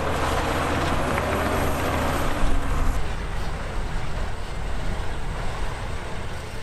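Diesel engine of heavy earthmoving machinery running. About three seconds in it eases off and a faint high whine stops.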